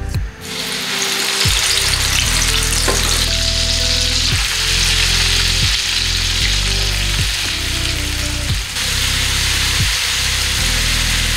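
Ground onion paste hitting hot oil in a frying pan and sizzling, with the hiss starting suddenly just after the paste goes in and continuing steadily as it is stirred with a spatula.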